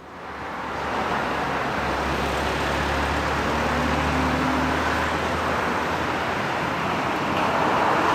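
Steady road traffic noise, an even rush with a low engine hum that swells through the middle and fades again.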